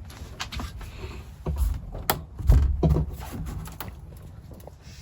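Someone clambering through a cramped crawl space: scattered knocks and scrapes against wood and other surfaces, with a dull thump about one and a half seconds in and a louder one about two and a half seconds in.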